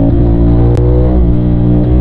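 CFMOTO 450SR's 450 cc parallel-twin engine running under way at a fairly steady pitch, with brief dips in pitch about a second in and near the end.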